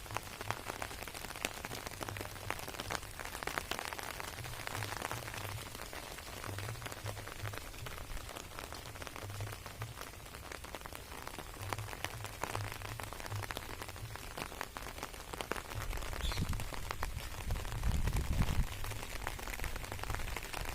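Steady rain falling on garden plants and surfaces: an even hiss dotted with many small drop ticks. A low rumble joins in during the last few seconds.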